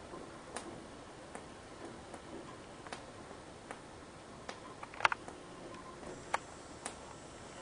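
Rainwater dripping indoors from a leak: single drops landing at irregular intervals, a sharp tick every half second to second and a half, the loudest about five seconds in, over a faint steady hiss.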